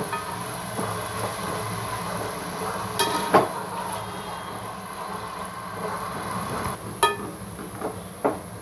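Diced potatoes frying in hot oil with a steady sizzle while a spatula stirs them, knocking against the pot a few times, most sharply about three and a half seconds in and again at about seven seconds.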